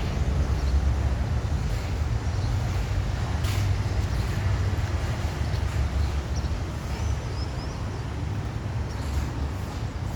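Low, steady rumble of a Boeing 737 MAX 8's CFM LEAP-1B turbofan engines as the airliner comes in on final approach, easing slightly toward the end.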